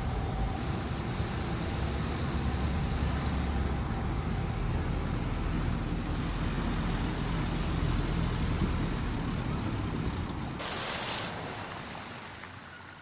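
Wind buffeting the microphone in strong, uneven gusts, a deep rumble with a hiss over it; it briefly gets hissier about ten seconds in, then dies away.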